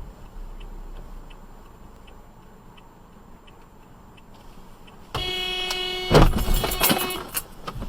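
Car horn sounding one steady note for about two seconds. A second into it comes a loud collision crash with clattering debris.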